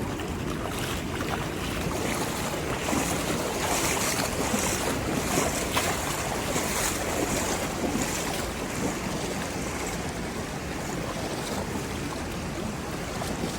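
Wind rumbling on the microphone over the rush of moving water, with brighter splashing in the middle stretch.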